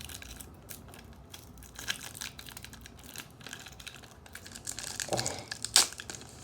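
Trading cards being handled and flipped through by hand: irregular dry clicks and slides of card stock, with some crinkling of a pack wrapper and one sharper click near the end.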